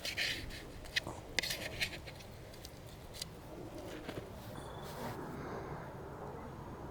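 Eating utensil clicking and scraping against a dish of food, several sharp clicks in the first two seconds, then a softer rustling from about four seconds in.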